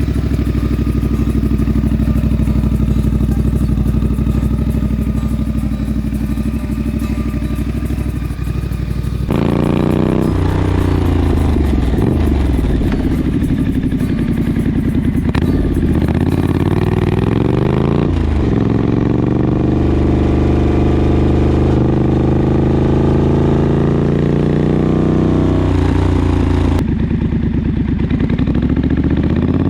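2019 Triumph Street Scrambler's 900 cc parallel-twin engine running through straight pipes (British Customs header and shotgun slip-ons), idling steadily, then revved several times from about nine seconds in, pitch rising and falling with each blip. The sound changes abruptly near the end.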